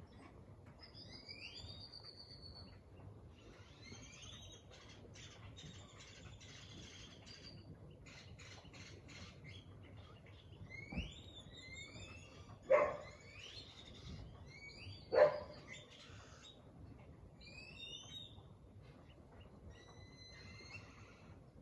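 Several birds chirping and calling, many short rising and falling whistled notes overlapping. Two louder short sounds stand out, about 13 and 15 seconds in.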